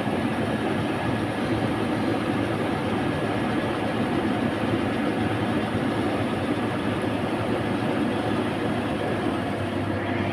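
Steady, unbroken rumble of vehicle engines and road traffic, with a low hum underneath.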